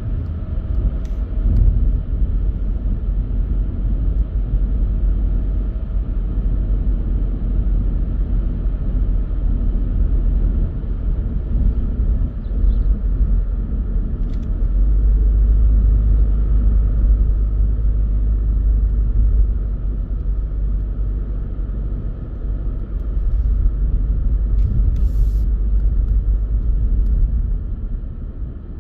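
Car driving along a road: a steady low rumble of tyres and engine that swells for a few seconds a little past the middle, with a few faint ticks.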